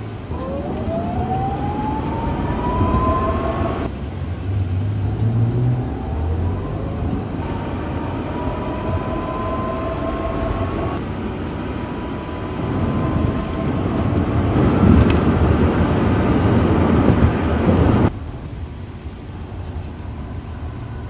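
Toyota COMS electric micro-car under way: a thin motor whine rises in pitch several times as it picks up speed, over road and running noise. The running noise grows louder for a few seconds and then drops off sharply near the end.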